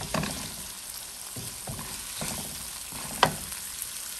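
Onions, tomatoes and spices sizzling in oil in a nonstick wok while a silicone spatula stirs them, with several short scrapes and knocks of the spatula against the pan; the loudest is a sharp knock about three seconds in.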